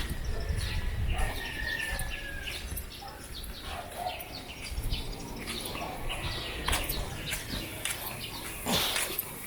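Small birds chirping over and over in quick short notes, with one thin drawn-out whistle early on. A low rumble runs under the first few seconds, and a couple of sharp clicks come in the second half.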